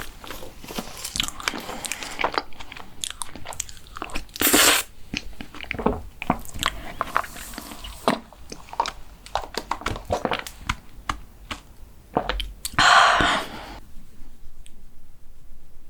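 Close-miked eating sounds of mint chocolate desserts: biting and chewing with many small crunchy, sticky clicks, and two louder bursts about four and a half and thirteen seconds in. The mouth sounds die away for the last two seconds.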